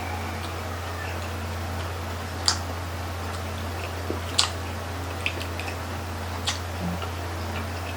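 Close-up eating sounds of someone chewing grilled chicken intestine (isaw): a few short, sharp wet mouth smacks, the clearest about two and a half, four and a half and six and a half seconds in, over a steady low hum.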